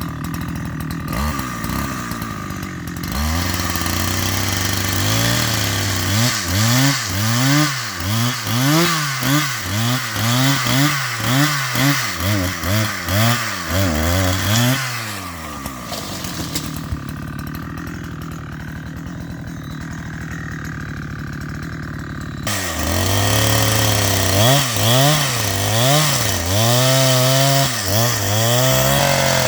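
Petrol chainsaw revving up and down over and over, dropping back to idle for several seconds in the middle, then revving again.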